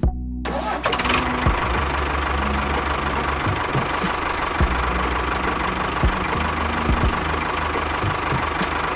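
A small engine starts up right away and then runs steadily with a knocking clatter.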